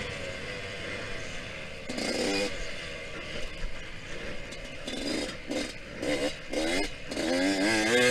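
Yamaha YZ125X two-stroke single-cylinder dirt bike engine revving in bursts as the throttle opens and closes. There is a short rise about two seconds in, several quick blips about five to seven seconds in, and a longer rising rev near the end, with a steady rushing noise between.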